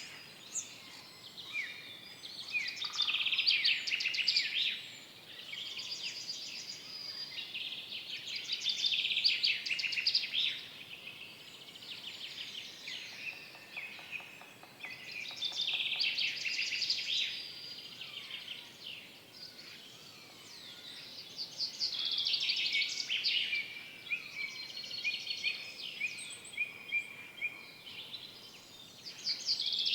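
Several forest songbirds singing at once, with overlapping phrases of quick chirps and rapid trills coming and going every few seconds. A faint steady hiss of forest air lies underneath.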